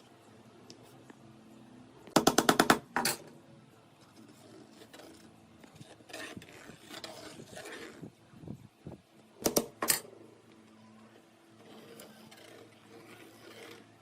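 Sharp mechanical clicks: a quick run of about seven, then one more, about two seconds in, and two more short clicks near the end, with faint rubbing in between.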